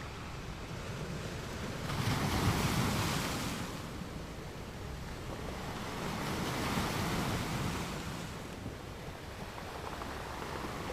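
Ocean surf: a steady rush of water with two waves breaking and washing in, one about two seconds in and another about six seconds in.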